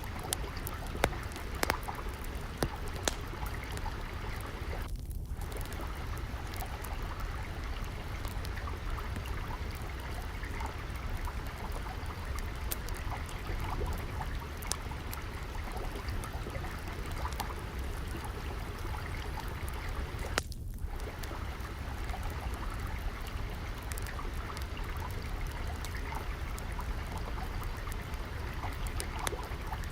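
Steady flowing water, with scattered sharp pops and crackles of a wood fire burning in a fireplace; a few pops stand out, mostly in the first few seconds.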